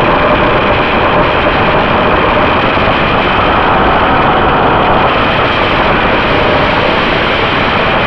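Loud, steady rushing noise from a Runcam 2 action camera's own recording, with a faint steady tone beneath it. It is the exaggerated wind-like noise that the camera's faulty microphone circuit puts on its recordings.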